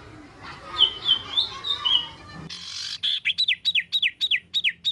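Songbird singing for a masteran recording: a few chirps over background noise, then, after the background suddenly drops about halfway through, a fast string of about ten sharp notes, each falling in pitch, some five a second. This is the rapid 'tembakan' (shot) phrase.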